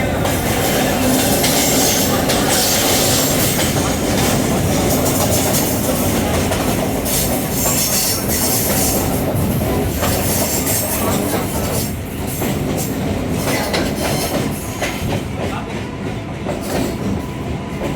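Chennai MRTS electric suburban train in motion, heard from on board: a steady running noise with scattered clicks of the wheels over the track, easing a little after about twelve seconds.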